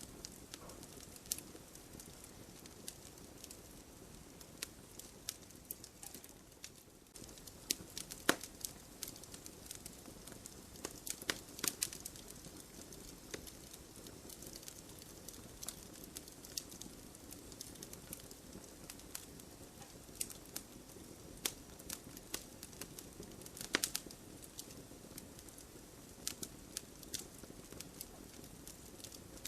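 Burning firewood crackling and popping at irregular intervals over a low, steady rush of flame, with a few louder snaps about 8, 12 and 24 seconds in.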